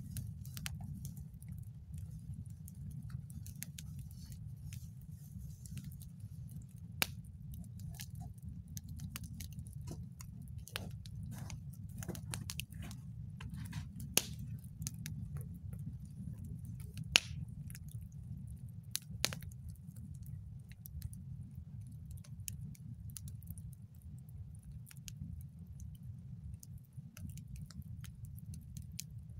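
Campfire crackling, with irregular wood pops and snaps, a few much sharper than the rest, over a steady low rumble.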